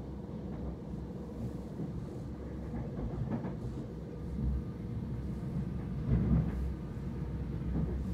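Running noise inside a Southern Class 377 electric multiple unit carriage: a steady low rumble of the wheels on the rails under a faint constant hum. There are a few light knocks from the track, and the rumble swells briefly about six seconds in.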